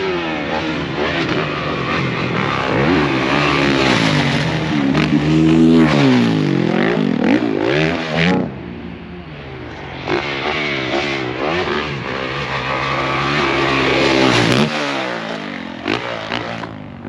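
Motocross bike engine revving hard, its pitch climbing and falling again and again as the rider works the throttle and shifts. It eases off partway through, builds again, then drops away near the end.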